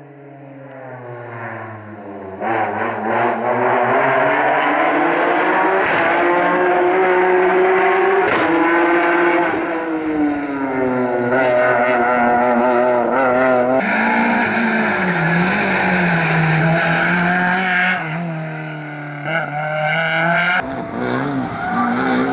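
Rally car engine approaching and accelerating hard, its pitch climbing through the revs and dropping back at several gear changes.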